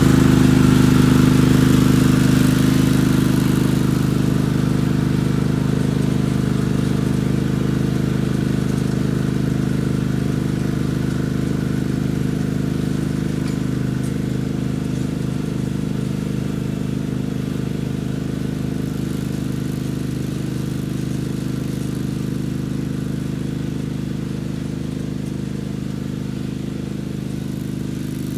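Mini tractor's engine running steadily under load as it pulls a homemade tiller around a food plot, slowly growing fainter.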